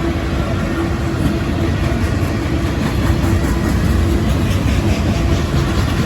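Freight train running by: the low rumble of its diesel locomotive engines together with the noise of the rolling rail cars.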